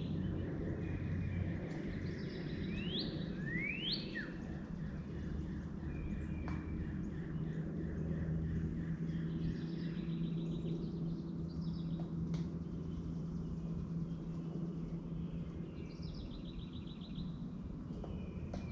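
Several songbirds calling: a few quick upward-sweeping whistles in the first few seconds, then fast trills of rapidly repeated notes on and off. Beneath them runs a steady low hum, with a sharp click about twelve seconds in.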